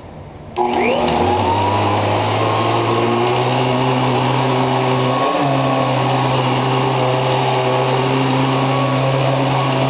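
Hoover Professional Series CH50020 upright vacuum cleaner switched on at its foot switch: the motor starts about half a second in, its whine rising in pitch over about a second as it spins up, then runs steadily, with a brief dip in pitch about halfway through.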